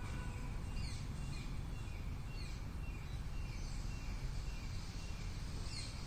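Outdoor ambience with a steady low rumble, over which birds give scattered short high chirps and a few quick downward-sweeping calls.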